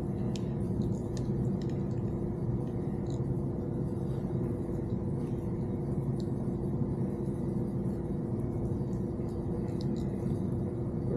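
A steady low machine hum with two constant tones, with faint small clicks and ticks scattered over it.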